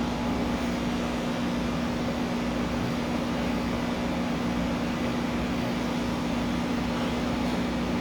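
Electric pet clippers running with a steady, constant hum while shaving a cat's coat.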